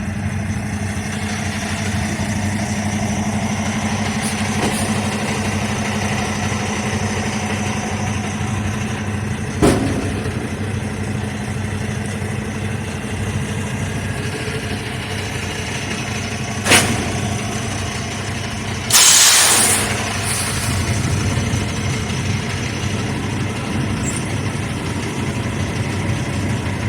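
Semi truck's diesel engine running steadily, with two sharp knocks along the way and a loud hiss lasting about a second about two-thirds of the way through.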